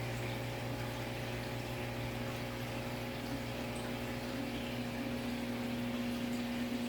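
Saltwater aquarium pump humming steadily under a constant wash of circulating water.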